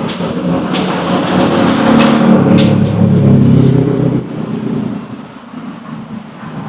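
A motor vehicle passing close by on the street: its engine grows louder to a peak about two to four seconds in, then fades away by about five seconds.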